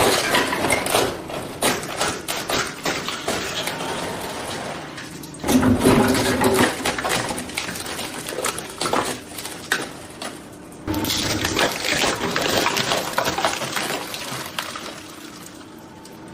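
Industrial shredder crunching and cracking a plastic toy cement mixer truck: dense, irregular crackling with sudden louder surges about five and a half and eleven seconds in.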